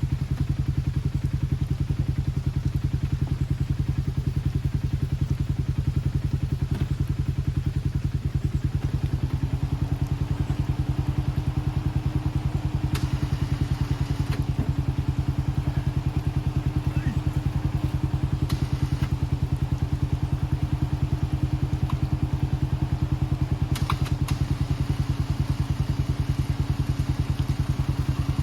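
A vehicle engine running steadily close by, with an even rapid pulse. From about nine seconds in, a faint steady whine runs under it, and a few light knocks sound.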